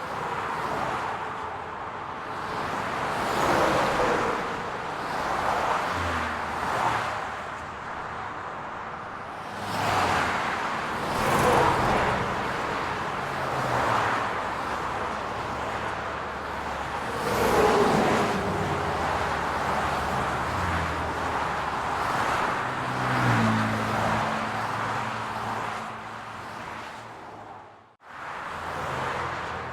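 City road traffic: cars passing one after another, each swelling and fading over a few seconds over a steady hum of engines and tyres. It cuts out abruptly for a moment near the end.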